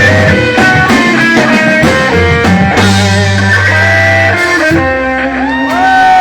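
Live blues band playing: electric guitar taking the lead over bass and drums, with notes bent upward and held near the end.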